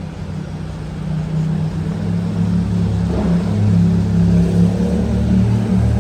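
A road vehicle's engine running with a steady low hum that grows louder from about a second in.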